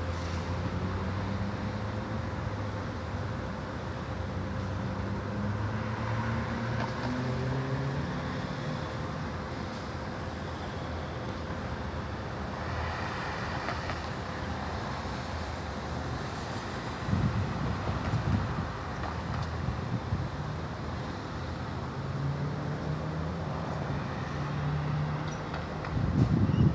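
Aircraft engine drone passing overhead, its pitch slowly sliding, over a steady background of distant traffic. Two brief low buffets, like wind on the microphone, come about two-thirds of the way in and near the end.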